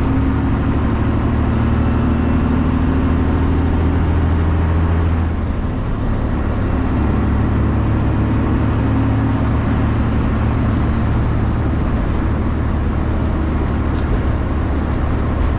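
Straight-piped 12.7-litre Detroit Diesel Series 60 inline-six in a Freightliner semi truck running under way, a loud, steady diesel drone. About five seconds in, the engine note dips briefly, then carries on.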